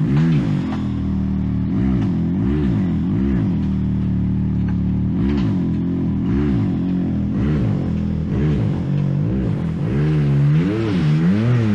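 Side-by-side UTV engine revving in short repeated throttle blips, about one a second, rising and falling in pitch each time, as the machine works its way up a rock waterfall climb.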